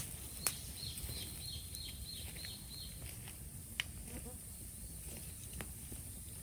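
A bird calling a quick run of about eight short falling notes, while sharp single pops and crackles come from a burning bamboo bonfire, the loudest right at the start and half a second in.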